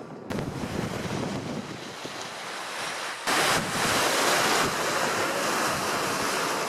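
Sea surf washing in, with wind on the microphone; the rushing noise swells suddenly louder about three seconds in.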